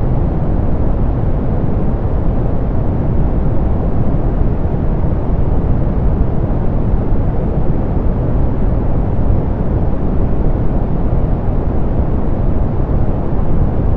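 Steady soft pink noise: an even, deep rushing hiss with the treble rolled off, unchanging throughout.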